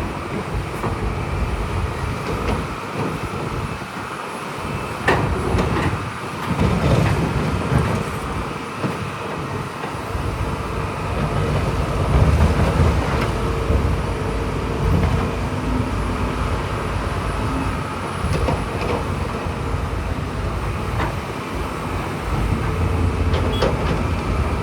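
Heavy diesel earthmoving machinery working: a steady low engine rumble with scattered clanks and knocks.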